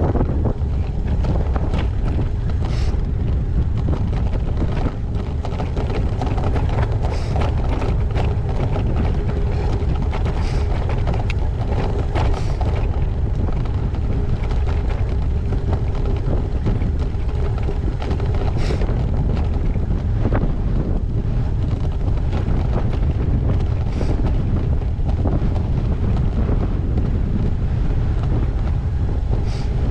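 Wind buffeting a GoPro HERO8's microphone on a moving gravel bike, over the steady low rumble of the ride, with a few sharp knocks or rattles scattered through it.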